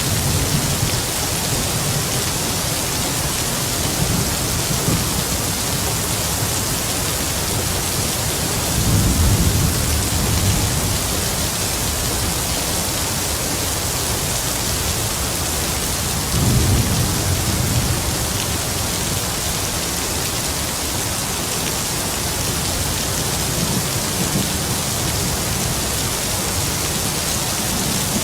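Heavy rain falling steadily, with distant thunder rumbling low several times, the loudest rolls about nine seconds in and again around sixteen seconds.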